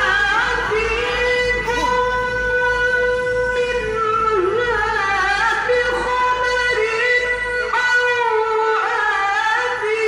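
A male Qur'an reciter (qari) chanting in a very high register, holding long notes with melismatic turns between them, in the style of melodic tilawah in maqam Rast at its third, highest level.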